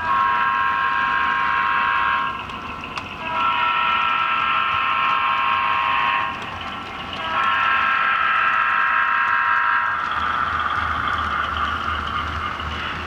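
HO-scale model locomotive's horn sounding three long blasts, each a steady multi-note chord. A fainter, drawn-out sound follows over a low pulsing engine rumble.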